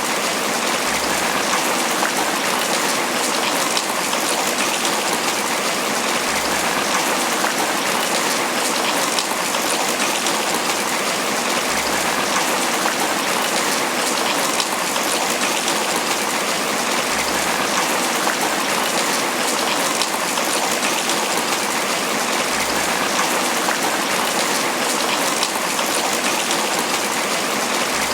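Steady tropical rain falling on banana leaves.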